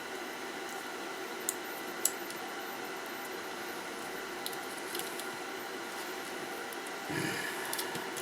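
Steady electrical hum with a few sharp, light clicks about a second and a half and two seconds in, and fainter ones later. Near the end comes a short rustling scrape, typical of small tools or parts being handled on a workbench.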